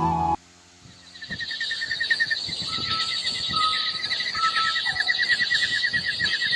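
An animal call: a fast trill of many short repeated high notes, with a few brief higher whistles over it, lasting several seconds. Flute music cuts off just before it.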